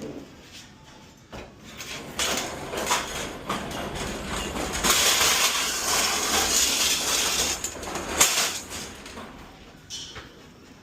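A loaded hand pallet jack rolling and rattling, with knocks and scraping. The noise builds about two seconds in, is loudest for about three seconds in the middle, ends with a sharp knock, then dies away. The driver has called this jack bogus.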